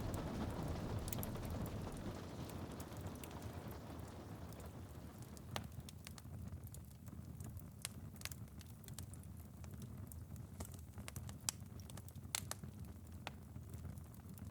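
Rain pattering on a window, fading away over the first few seconds, then a wood fire crackling with scattered sharp pops over a low steady background.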